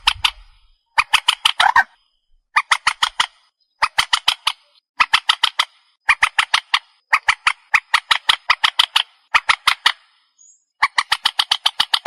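Recorded calls of the trích ré bird played as a trapping lure: rapid runs of harsh, clipped notes, about eight to ten notes a second in bursts of roughly a second, repeated with short gaps.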